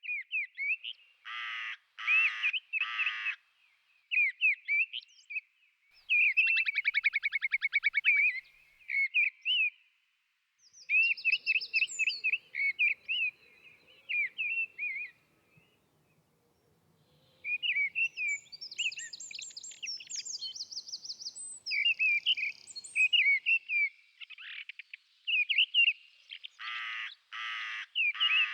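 Whimbrels calling: rapid rippling whistled trills and short whistles, one after another, with other short bird chirps among them. The calling breaks off twice, briefly, about ten and sixteen seconds in.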